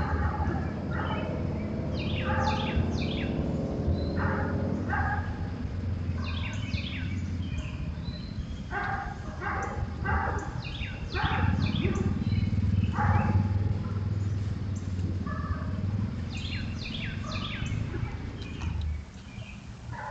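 Songbirds calling in short, quick notes that come in repeated clusters. Beneath them runs a steady low rumble that drops away near the end.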